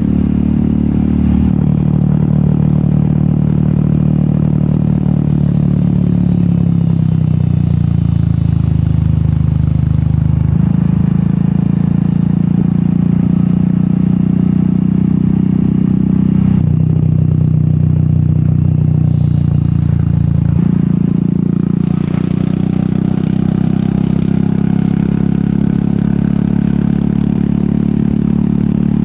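Royal Enfield Meteor 350's single-cylinder engine running through an aftermarket sport exhaust while riding, its low note stepping up and down in pitch several times.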